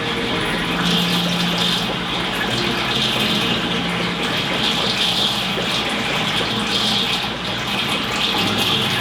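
Aquarium water running steadily: a continuous, even rush of moving water, as from the tank's filter flow.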